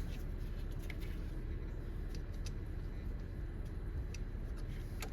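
A few faint, scattered clicks and light taps of parts being handled in an engine bay, over a steady low background rumble.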